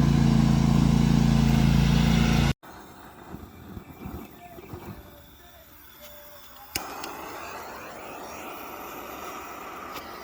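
Riding lawn mower engine running steadily with a low hum, cut off abruptly about two and a half seconds in. Quieter outdoor sounds follow, with a sharp click about halfway through and then a steady faint hiss.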